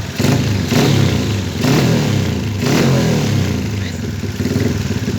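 Yamaha Jupiter MX single-cylinder four-stroke, bored up to 165cc and fitted with a CLD oval aftermarket exhaust, revved in several short throttle blips. It then settles lower toward idle near the end.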